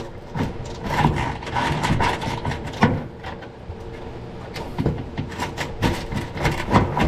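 Irregular clicks, knocks and scrapes of hand tools and metal parts being handled while unbolting a truck's front end, over a faint steady hum.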